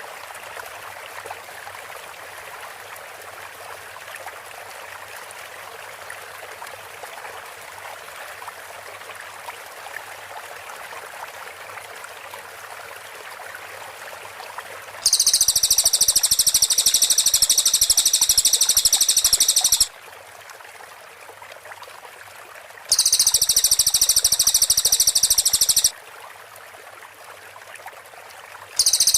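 Cililin songbird giving its rapid, high-pitched 'tembakan' bursts, with dense rapid-fire notes. Two long bursts come about halfway through and about 23 seconds in, and a third starts at the very end. Before the first burst there is only a steady water-like hiss.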